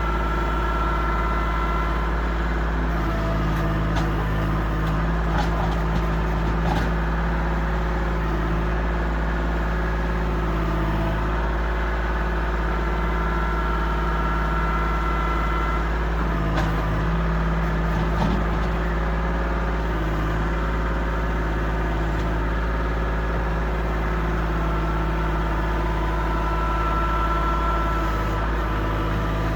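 Kubota L2501 tractor's three-cylinder diesel engine running steadily while it works as a loader, with a higher whine that swells and fades three times.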